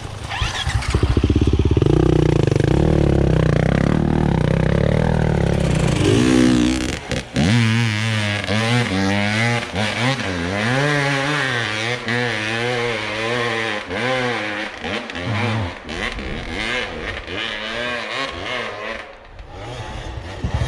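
Enduro motorcycle engine under load off-road. It runs hard at first, then is revved up and down over and over, its pitch rising and falling every second or so, with scattered knocks.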